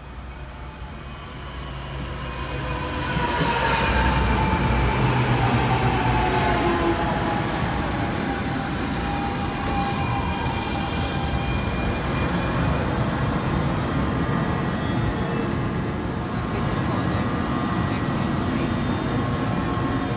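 NJ Transit commuter train approaching and passing close by. It grows louder over the first few seconds, then holds at a steady rumble of cars rolling past, with squealing wheels and falling tones.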